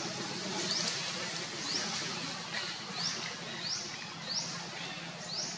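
A bird calling: a repeated high chirp, each a quick rising sweep, about one every three-quarters of a second, with a steady low hum underneath.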